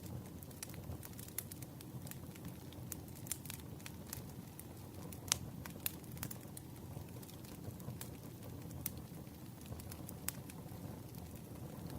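Campfire burning with a steady low rumble and irregular sharp crackles and pops, one louder pop about five seconds in.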